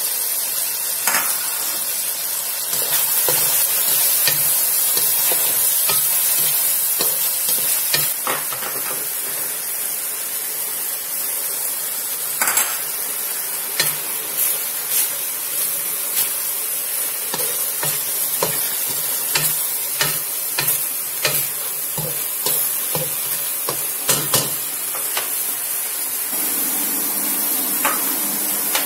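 Chicken, carrots and celery sizzling in a pan of hot oil and sauce, with a spatula stirring and knocking against the pan in a run of sharp clicks through the middle.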